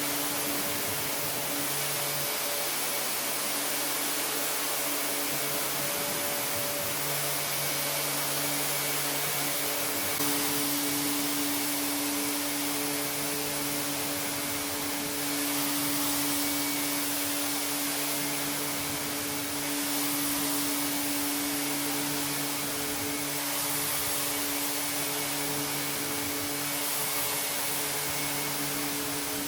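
Motor of a vacuum-type rug-cleaning machine running steadily, with a constant hiss and a hum. A lower hum cuts in and out every few seconds.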